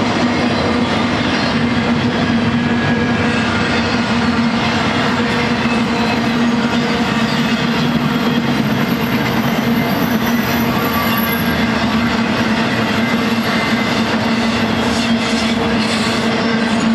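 Intermodal freight train's cars rolling past at speed: a steady loud rumble and rattle of steel wheels on rail under a low hum, with a faint high squeal a little past the middle.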